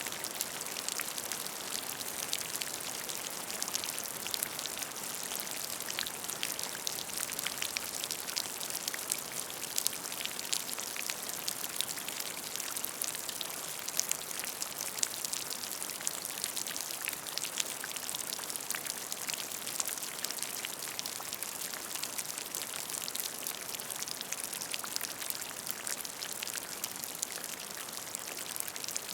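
Steady rain falling into a puddle of water, a constant hiss with many distinct drops splashing on the water's surface.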